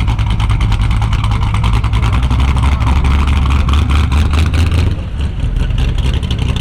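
Loud muscle car engine running close by, a deep rumble with rapid exhaust pulses that eases off a little about five seconds in.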